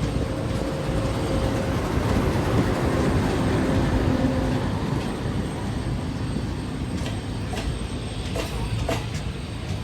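A moving train rumbling along the track, with a few sharp clicks from the wheels crossing rail joints in the second half.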